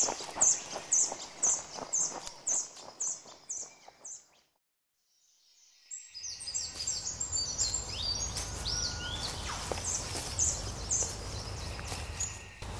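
Forest birds calling: a short, high chirp repeated about twice a second, broken by a couple of seconds of near silence midway, then a busier mix of chirps and rising whistles over a low rumble.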